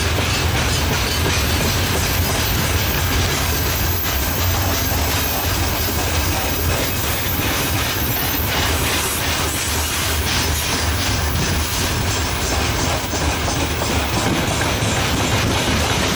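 Covered hopper wagons of a long freight train rolling past, their wheels clattering steadily over the rail joints.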